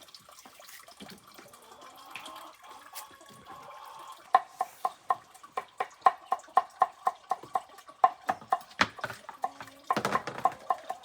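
A knife or cleaver chopping on a cutting board in quick, even strokes, about four a second, starting about four seconds in: chicken feed being minced before it is mixed with bran.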